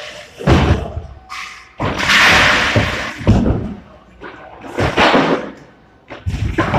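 Drywall being smashed and torn down: an irregular series of heavy thuds and cracking crashes, with one longer crash about two seconds in.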